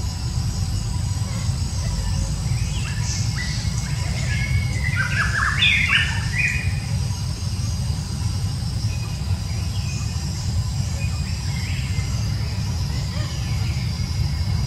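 Birds chirping outdoors, with a quick cluster of chirps about five to six seconds in, over a steady high whine and a low rumble.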